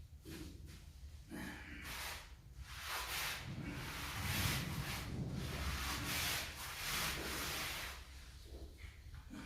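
Cement mortar being scraped and smoothed by hand in a series of scraping strokes, each under a second, while a tile mortar bed is spread and levelled; the strokes die down near the end.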